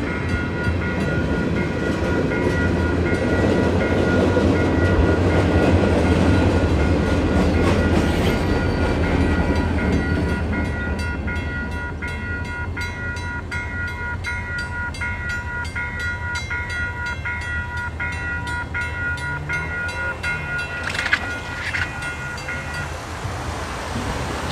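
Lake State Railway freight train rumbling past a grade crossing, loudest in the first ten seconds and then easing off, while the crossing signal's bell rings steadily and stops near the end.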